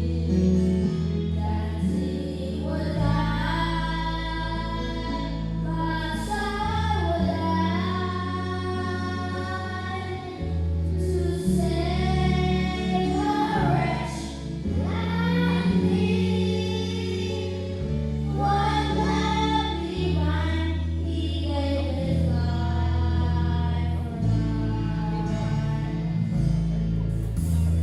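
Gospel song sung by male voices, a duet, over an instrumental accompaniment with long held bass notes.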